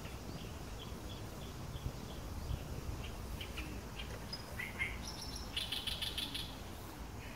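Small birds chirping in the forest: a run of short, evenly repeated high chirps, then a denser, louder burst of chirping about five to six seconds in, over a low rumble.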